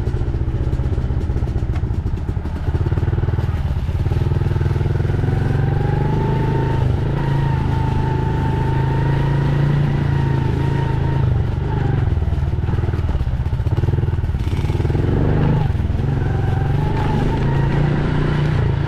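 Dirt bike engine running continuously on a warm-up lap, its pitch rising and falling with the throttle.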